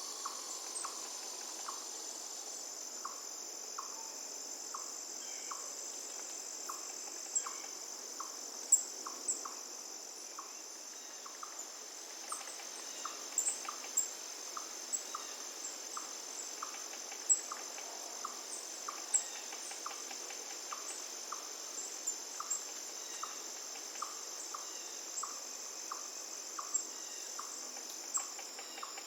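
Insects chirring in a continuous high, even trill, with a short lower note repeating about once a second and scattered sharp ticks, over a faint steady rush of river water.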